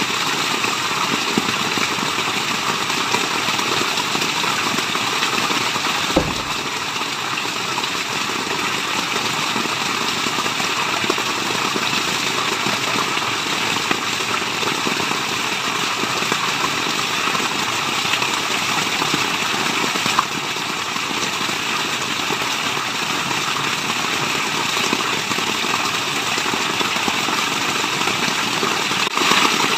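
Steady rushing of a waterfall's falling water, a dense even roar with no distinct splashes. It dips slightly in level about six seconds in and again about twenty seconds in.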